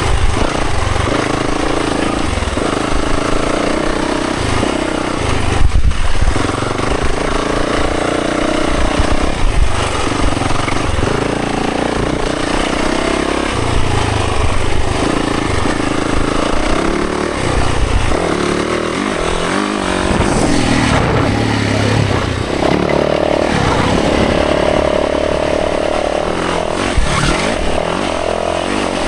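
Dirt bike engine running under load on a trail, its pitch rising and falling again and again as the throttle is opened and closed.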